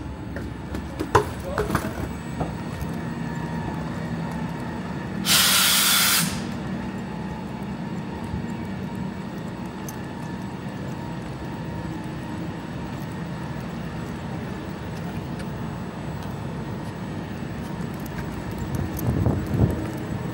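Steady hum of a standing commuter train, with one loud hiss of released compressed air about five seconds in, lasting about a second.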